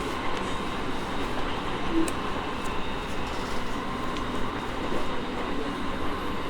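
Running noise inside an E217 series electric train moving at steady speed: continuous rumble of wheels on rail with a steady hum of several constant-pitch tones over it, and a faint click or two.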